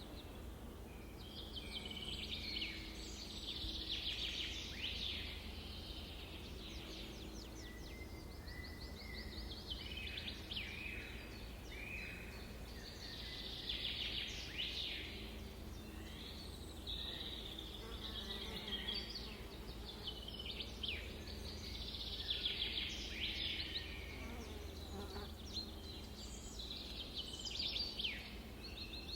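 Several songbirds singing together, overlapping phrases and rapid trills following one another with little pause, over a steady low hum.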